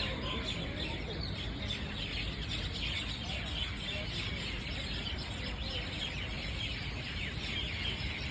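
Many birds chirping at once in a dense, continuous chorus of short, quick chirps, over a steady low rumble.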